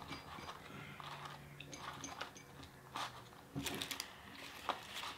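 Close-up eating sounds: chewing and crunching of fast-food fries, with a few sharp crackles clustered about three to four and a half seconds in.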